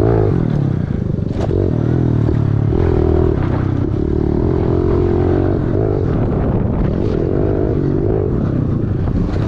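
110cc pit bike's single-cylinder four-stroke engine revving up and down under riding, its pitch rising and falling as the throttle works. There is a single sharp click about a second and a half in.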